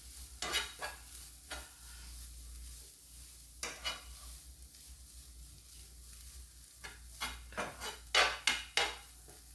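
A utensil scraping and clinking in a frying pan as kale is stirred while it sautés, with a faint sizzle underneath. The strokes come now and then, then in a quick run near the end.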